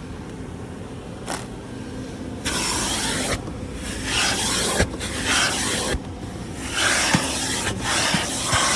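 Automatic car wash tunnel washing the car, heard from inside the cabin: a low rumble, then from about two and a half seconds in, repeated hissing sweeps of water spray and brushes across the body, each about a second long.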